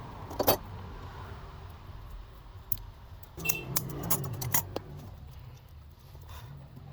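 Small metal parts clinking and tapping against each other: one sharp clink about half a second in, another near the middle, then a quick cluster of clinks a little later, over a low steady hum.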